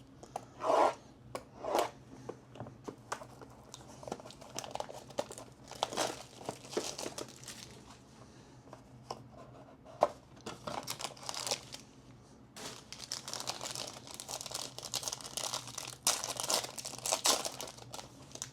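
Plastic wrap and packaging on a sealed box of trading cards being torn open and crumpled by hand, in irregular crinkling bursts.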